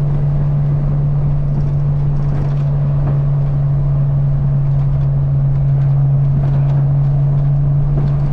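Porsche 986 Boxster's 2.5-litre flat-six cruising at steady throttle through a cheap aftermarket cat-back exhaust, giving a constant low drone that holds one pitch. The exhaust drones in the 2,500–3,000 rpm range.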